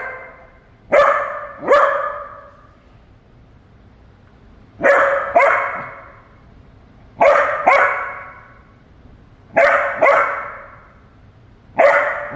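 A young puppy barking in short, sharp double barks, five pairs a couple of seconds apart, each bark trailing off in echo. The puppy is barking at cats newly brought into the house.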